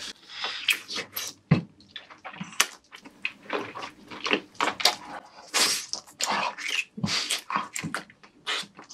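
Close-miked wet chewing and slurping of cooked octopus tentacle, a quick run of squelching mouth sounds at irregular intervals.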